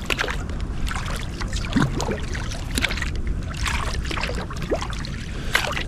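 Kayak paddle strokes in the water: small splashes and drips from the paddle blades, over a steady low rumble.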